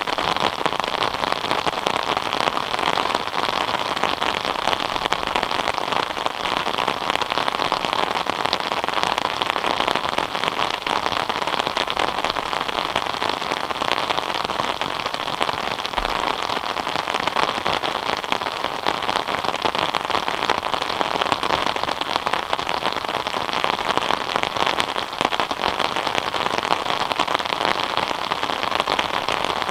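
Steady rain falling on surfaces, a dense even patter of drops.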